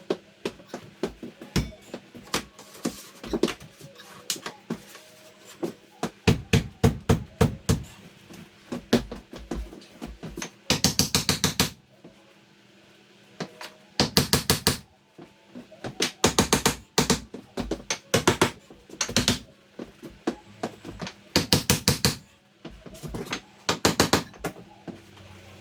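Carpentry work on a wooden door extension frame: runs of hammer knocks and taps, broken by several bursts of very rapid, evenly spaced impacts lasting about a second each.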